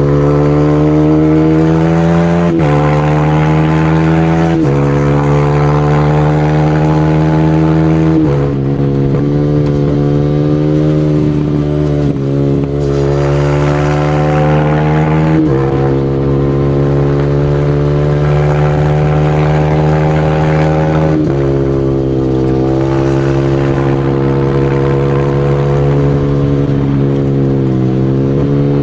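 Supermoto motorcycle engine pulling hard under acceleration. Its pitch climbs steadily and drops back at each gear change, about six shifts.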